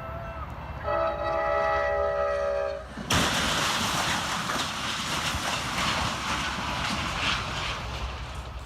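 Train horn sounding a steady chord for about two seconds, then a sudden loud crash about three seconds in, followed by a long noisy rumble of the collision and the train rolling on, fading near the end.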